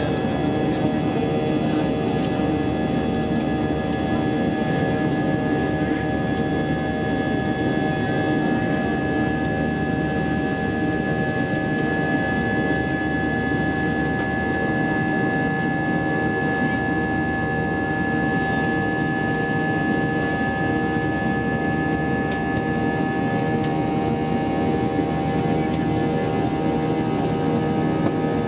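Steady cabin noise inside an Airbus A320-232 in flight: a constant rumble from its IAE V2500 engines and airflow, with several steady whining tones over it.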